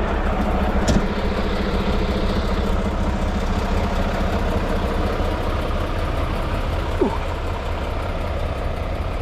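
Heavy diesel engine idling steadily with an even low rumble, with a sharp click about a second in.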